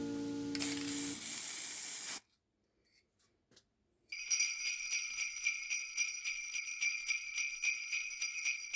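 Jingle bells shaken in a steady rhythm, about four shakes a second, starting about four seconds in after a short silence. Before that, a hiss fades out.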